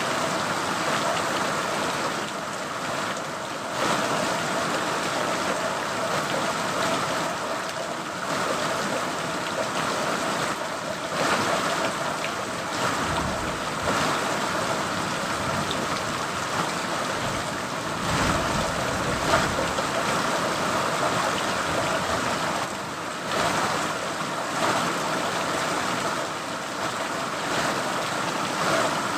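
Steady rainfall, an even hiss of drops. A low rumble swells briefly twice, a little before and a little after the middle.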